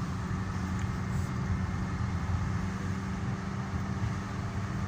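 Steady low hum of a road vehicle running, engine and road noise.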